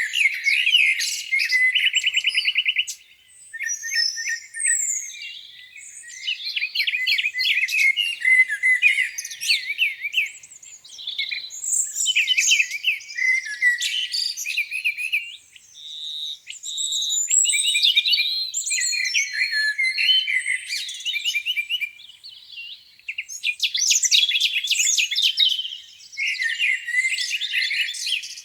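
Several songbirds singing over one another in a spring chorus: varied chirps, quick rising and falling whistles and fast trills, with brief lulls between bursts.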